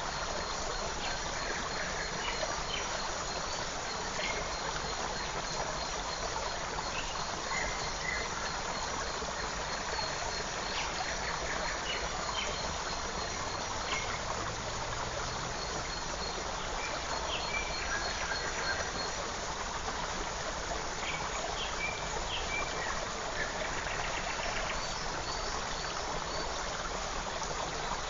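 Forest creek water running steadily, with scattered short bird chirps and a thin high trill.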